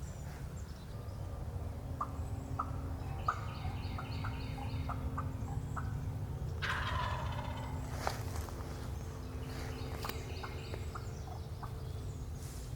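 Wild turkey gobbler gobbling, with the loudest rattling gobble about seven seconds in. Short chirps of small birds sound here and there.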